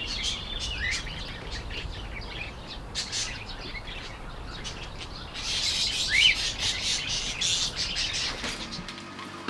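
Budgerigars chirping and chattering, with many short calls and two rising whistles, one about a second in and one about six seconds in. The chatter grows busier in the second half.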